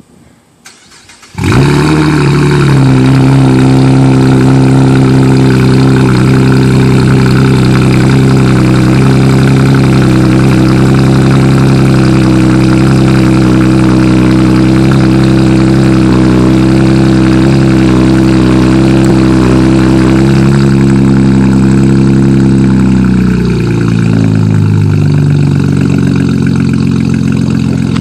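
2014 Chevrolet Camaro RS with high-flow catalytic converters and a Flowmaster Outlaw 3-inch cat-back exhaust, cold-started: a brief crank, then the engine catches about a second in and runs at a steady, loud high cold idle. A few seconds before the end the idle drops to a lower, settled speed.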